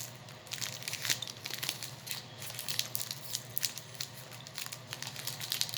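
Plastic snack wrapper crinkling and tearing as it is worked open, a run of small sharp crackles.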